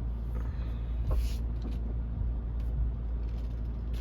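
Steady low rumble of the Rivian electric pickup truck rolling off, heard inside its cabin, with a brief rustle about a second in.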